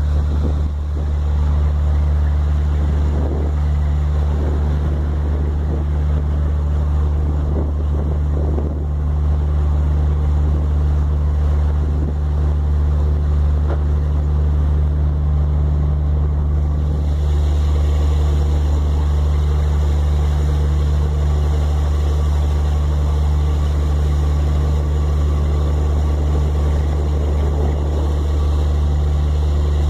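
Motorboat engine running at a steady, unchanging drone while under way, with wind noise on the microphone and water rushing past.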